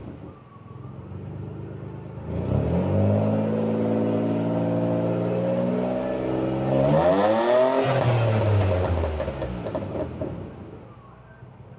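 1999 Ford Cougar's 2.5 L V6 running without catalytic converters, its exhaust note climbing as the engine accelerates. About seven seconds in, the pitch jumps up sharply, peaks, then falls and fades away.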